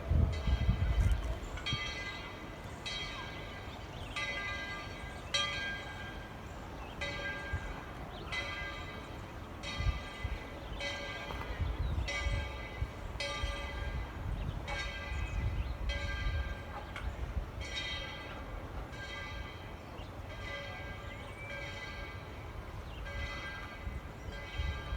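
Steam locomotive bell on Tweetsie Railroad #12 ringing steadily, a little under one strike a second, over a low rumble from the train.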